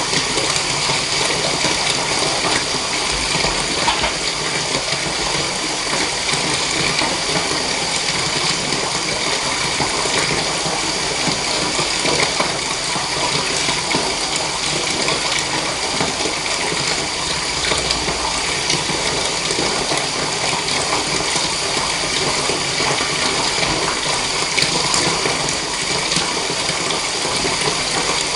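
Water running steadily from a tap into a bathtub, an unbroken splashing stream.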